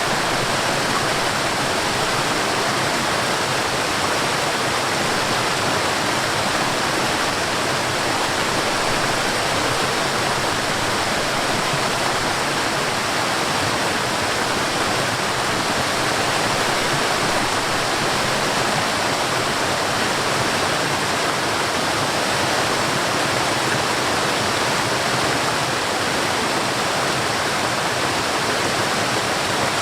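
Waterfall pouring steadily: a dense, even rush of falling water with no breaks or changes.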